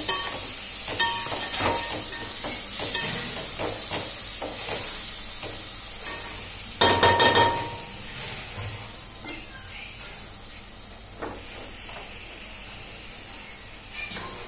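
Fenugreek leaves and onions sizzling as they fry in an aluminium pot, stirred with a metal ladle that scrapes and clinks against the pot. About seven seconds in, the ladle is knocked several times on the pot with a ringing clink. The sizzle grows fainter later on.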